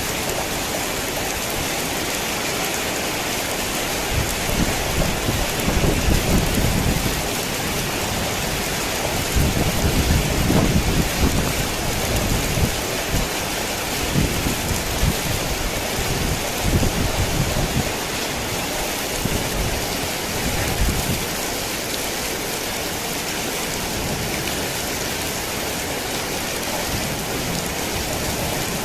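Heavy rain falling in a steady hiss, with thunder rolling low and uneven from about four seconds in until about twenty seconds in, loudest twice along the way, before the rain goes on alone.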